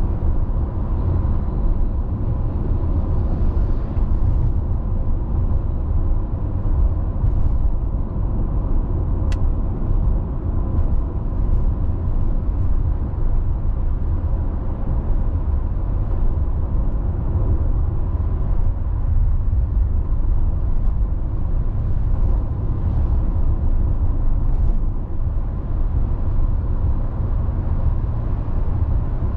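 Road noise of a car driving at steady speed: a constant low rumble of tyres on the road and the engine, with one faint click about nine seconds in.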